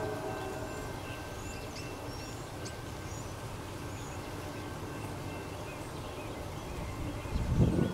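Steady low rumble of a loaded coal train, with small birds chirping faintly over it; the rumble swells louder for a moment near the end.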